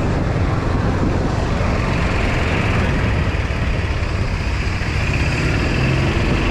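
Steady rumble and rush of a moving open vehicle, most likely a gas golf cart, running at an even speed.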